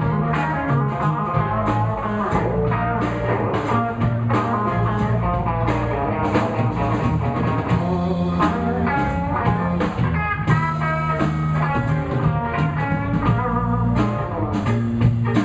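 A live blues band playing an instrumental break: lead guitar runs over bass and a drum kit keeping a steady beat with cymbals.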